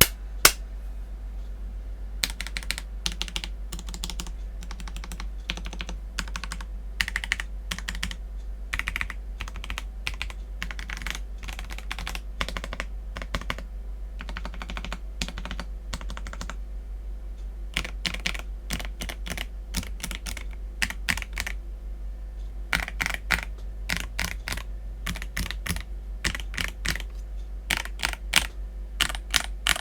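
Akko PC75B mechanical keyboard with lubed Akko Jelly Black linear switches and PBT Cherry-profile keycaps, keys pressed one at a time, each press and release giving a short clack. The clacks come in separate clusters, with quicker runs near the end.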